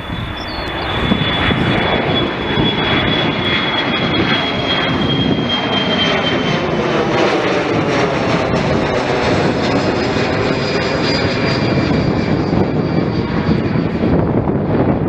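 An aircraft flying past: a loud, steady rushing noise with a high whine that slowly falls in pitch.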